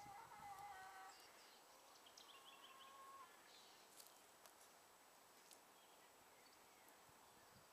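Faint calls from backyard hens: two drawn-out calls in the first three seconds, with a few high chirps and light ticks.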